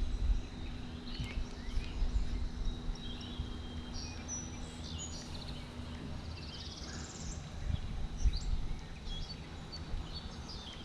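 Songbirds chirping and trilling in short scattered calls, over a low rumble and a thin steady high tone.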